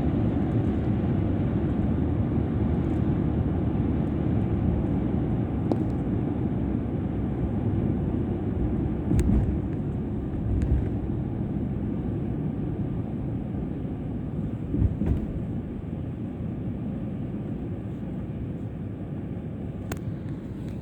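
Steady low rumble of a moving vehicle, engine and road noise heard while riding, with a few brief knocks and bumps.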